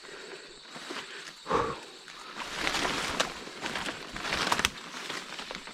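Footsteps crunching and rustling through leaf litter and undergrowth, with a sharp knock about a second and a half in. A faint steady high insect drone runs underneath.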